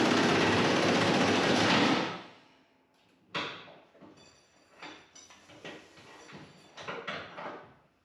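A loud, steady mechanical noise that fades out about two seconds in, followed by a sharp knock and a scatter of smaller knocks and clanks.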